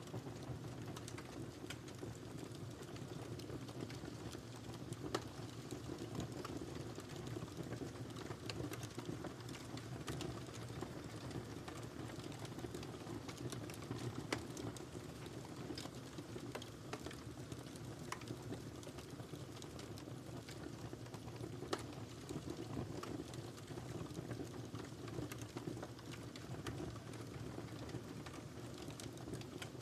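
Wood fire burning in a fireplace: a steady low rumble with frequent small crackles and pops, and two louder snaps about five and fourteen seconds in.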